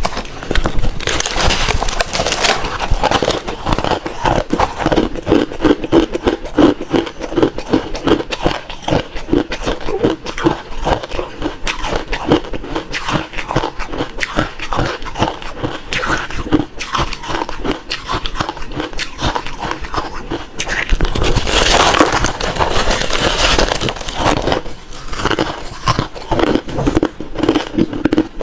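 Refrozen crushed ice being chewed close to the microphone: dense, rapid crunching and crackling, with a louder stretch about three-quarters of the way through.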